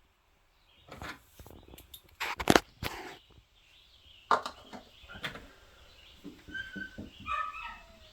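Squirrels on the roof and wall of an old wooden bunkie: a scatter of sharp knocks and scrapes, then a few short high chirps near the end.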